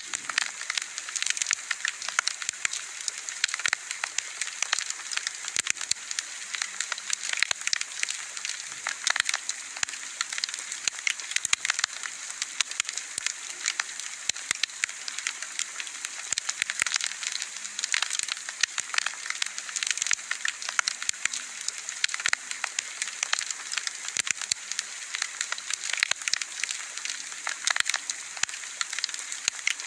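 Wood bonfire burning, with a dense, continuous crackling of many small pops over a steady hiss.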